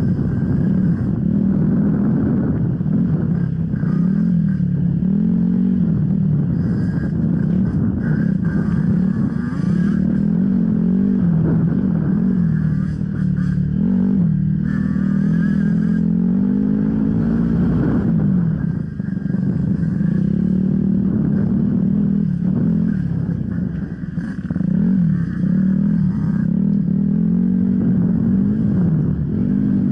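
Enduro motorcycle engine being ridden hard off-road, its revs rising and falling constantly with the throttle, with two short lulls where the throttle is eased off.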